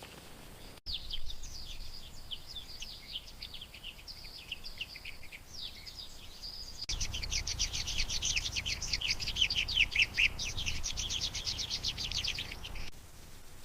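Small birds chirping in quick, high-pitched twittering runs. The twittering starts abruptly about a second in, grows denser and louder about halfway through, and stops shortly before the end.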